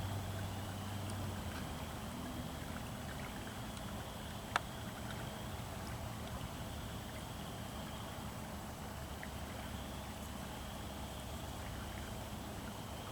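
Steady outdoor background noise, a low rumble with a hiss over it, broken by a single sharp click about four and a half seconds in.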